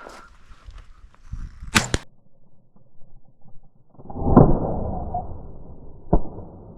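A shotgun shot about four seconds in, its report rolling away for about two seconds. Sharp clicks come shortly before it, and another single sharp crack comes near the end.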